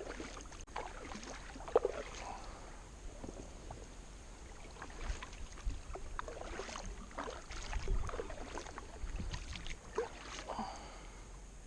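Kayak paddle strokes in the water: irregular splashes and drips as the blades dip and lift, paddling against the river current.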